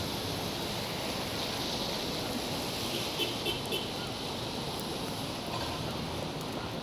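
Steady rushing noise of wind in a snowstorm, mixed with city traffic, with three short high chirps about three seconds in.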